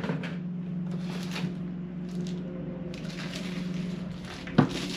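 Packaging rustling and parts being handled while unboxing, with a sharp knock near the end, over a steady low hum.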